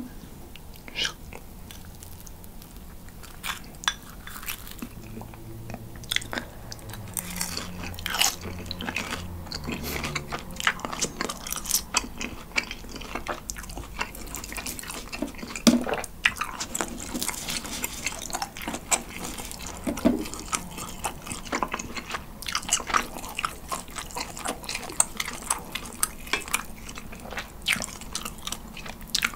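Close-miked chewing of grilling cheese dipped in condensed milk: many small wet clicks and smacks. The rubbery, rubber-chewing squeak this cheese makes when eaten plain is absent.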